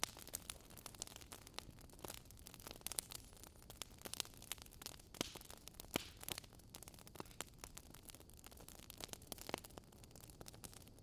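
Campfire crackling, with frequent irregular pops and snaps of burning wood over a faint, steady low background noise.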